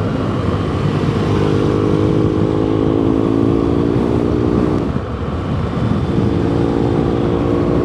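2017 BMW R1200GS boxer-twin engine with an SC Project exhaust, running at steady road speed. The engine note breaks off briefly about five seconds in, then settles back.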